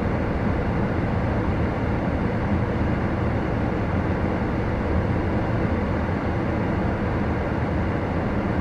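Steady low rumble and hiss of a car heard from inside the cabin, unchanging throughout.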